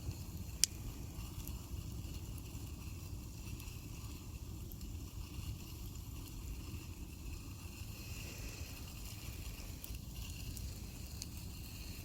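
Campfire burning: a low steady rumble with a few faint crackles and one sharp snap about half a second in.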